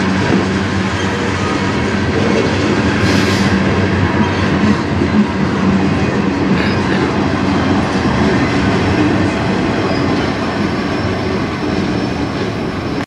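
Freight train's tank cars and boxcars rolling past, steel wheels clattering on the rails in a steady rumble, with one brief sharp noise about three seconds in. The noise eases slightly near the end as the last cars pass.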